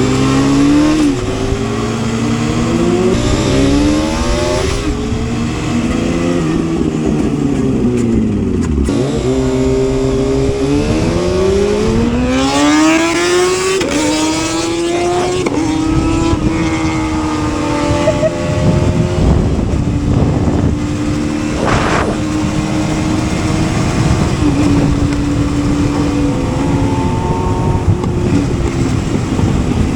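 Sport motorcycle engine pulling away and accelerating through the gears, its pitch climbing and dropping at each shift, easing off and accelerating again, then holding a steady pitch at cruising speed. Wind noise runs underneath.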